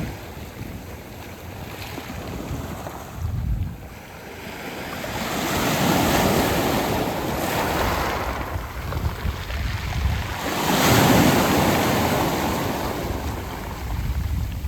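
Sea waves washing up a beach of rounded pebbles and drawing back, swelling twice, loudest about eleven seconds in. Low wind rumble on the microphone comes and goes.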